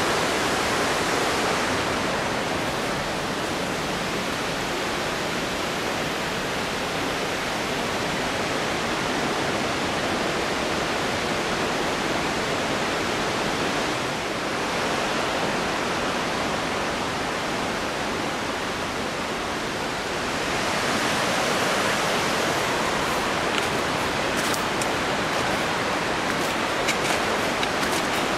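Steady rush of water from a mountain stream and waterfalls, growing a little louder about twenty seconds in, with a few faint clicks near the end.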